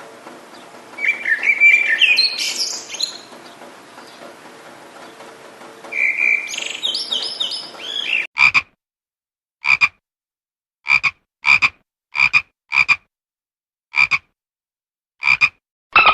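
Animal calls: for the first half, chirps that glide up and down over a steady hum. Then a series of separate short calls, one roughly every second.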